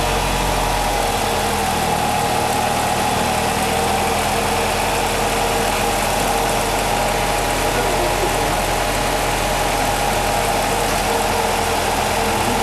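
Nissan X-Trail T32 drivetrain running, its CVT and wheels turning, giving a steady whine over a constant hum. The listeners take the whine for coming from the CVT. The hum is later traced to a worn right wheel hub bearing.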